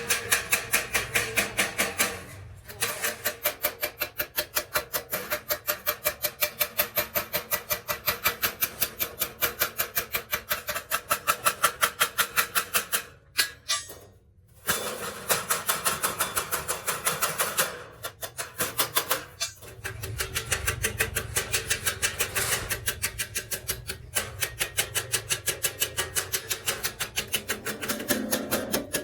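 Steady, rapid hammering on sheet metal, about four blows a second, as a muffler shell is shaped by hand. The blows stop briefly a few times, the longest pause coming about halfway through.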